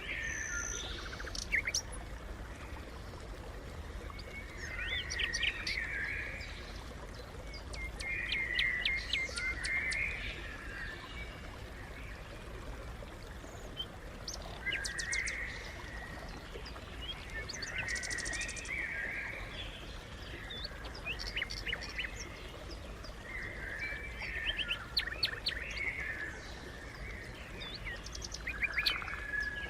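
House sparrows chirping in repeated bouts of short chirps, a few seconds apart.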